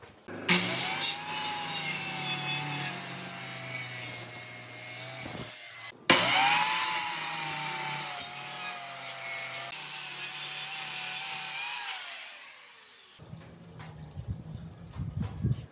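Handheld electric power tool cutting into wood in two long runs. Its motor pitch wavers under load, and near the end it winds down with a falling whine.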